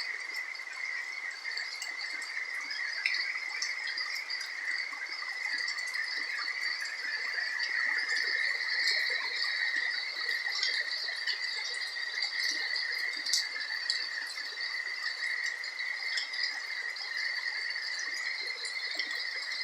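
Steady chorus of calling insects, an unbroken shrill hum in two high pitches, with a few scattered faint taps of dripping rain.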